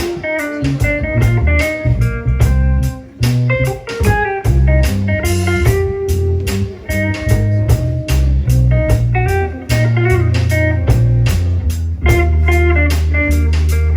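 Live band music in a blues vein: guitar over a heavy bass line and a drum kit keeping a steady beat.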